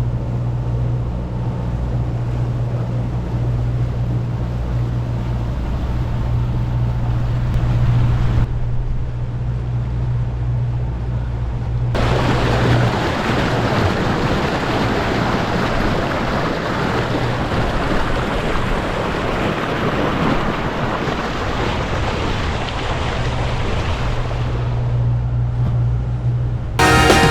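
Boat's outboard motor running underway with a steady low hum, over wind on the microphone and water rushing past the hull in a slight chop. About halfway through, the wind and water noise grows much louder and covers the hum, which comes back near the end.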